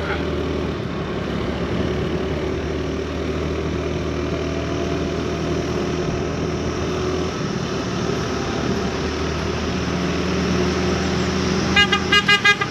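Motorbike engine running steadily while riding, with road noise. Near the end, a vehicle horn gives several quick short toots.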